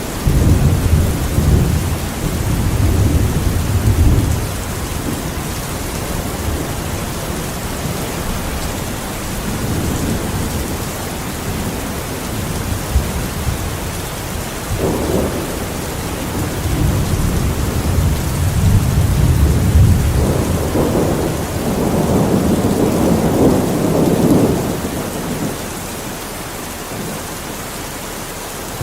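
Steady rain falling, with low rolls of thunder rumbling through several times. The longest rolls come in the second half.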